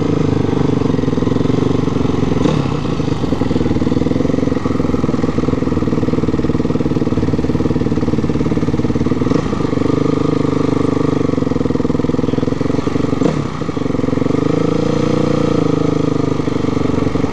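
Motorcycle engine running at low, steady revs as the bike rolls slowly, with the revs dipping briefly about fourteen seconds in.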